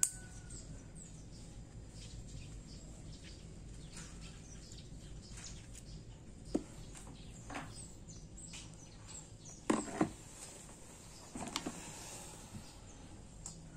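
Faint bird chirps in the background, with a few light clicks and taps; the loudest is a pair about ten seconds in.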